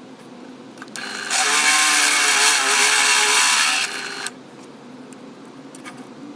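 Home-made belt grinder driven by an angle grinder, running with a steady hum; about a second in, something is pressed to the belt and gives a loud, harsh grinding for about three seconds, then stops.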